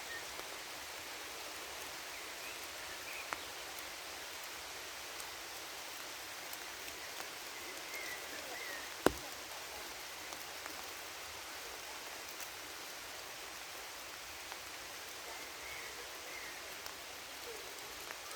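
Steady rain hissing through a forest, with scattered single drops ticking close by and one sharp, louder drop hit about halfway through.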